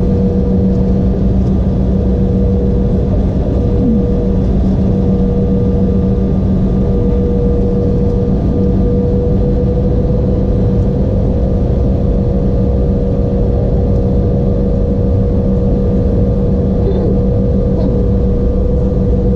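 Embraer E175 cabin noise from the jet engines: a loud, steady rumble with two constant hums, one low and one in the mid range.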